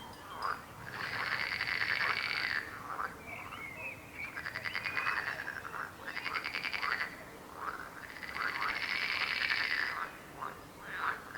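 Chorus of croaking frogs: several long, rapidly pulsed trills of a second or two each, one after another, with shorter rising calls from other frogs overlapping between them.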